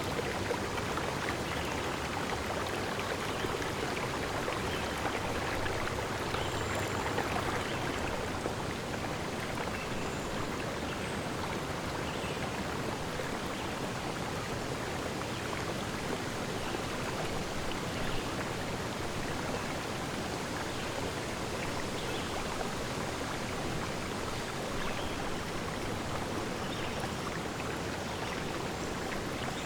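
Steady rushing of flowing water, as from a stream or waterfall.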